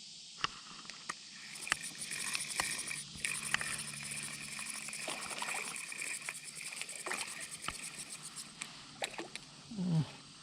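Water sloshing and splashing against a small boat, with scattered sharp clicks and knocks throughout.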